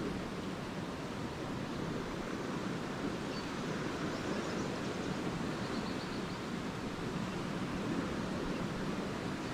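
Small lake waves washing steadily onto a sandy beach. A few faint, short, high twitters from swallows come through near the middle.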